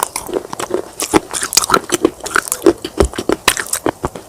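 Pieces of clay pot being bitten and chewed, a quick run of sharp crunching cracks.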